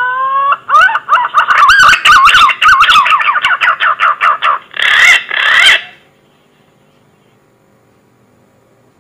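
Green pigeon (punai) whistling call used as a hunting lure: a rising whistle, then a rapid run of warbling, wavering notes, closing with two louder drawn-out wavering notes. The call stops about six seconds in.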